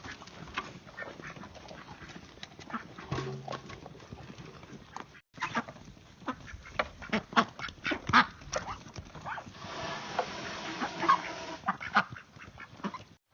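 Ducks quacking in short, scattered calls, mixed with small clicks and rustles.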